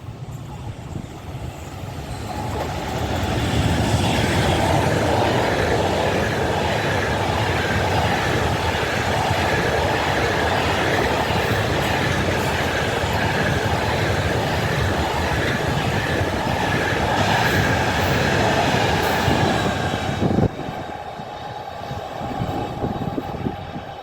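A train passing close by on the tracks: the rumble builds over the first few seconds, stays loud and steady with a faint high whine for about sixteen seconds, then drops away suddenly with a sharp knock about twenty seconds in.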